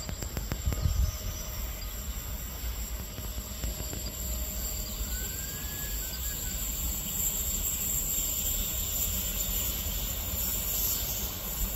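Electric multiple-unit train (Hitachi Rock ETR 621) running slowly into the station round a curve: a steady rumble and hiss, with a brief faint squeal about five seconds in.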